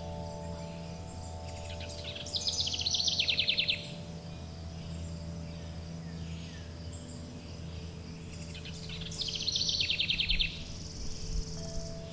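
A songbird sings two phrases, about 2 seconds in and again about 9 seconds in, each a quick falling note running into a rapid trill. Behind it are sustained ringing chime tones and a steady low hum.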